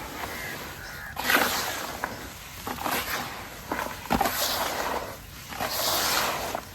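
Dried white cement shapes crumbling and crunching in water, in irregular bursts of crackle and hiss.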